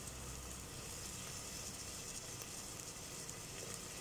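Chopped onions and tomatoes sizzling softly in hot oil in the bottom of a pressure cooker, a steady faint hiss.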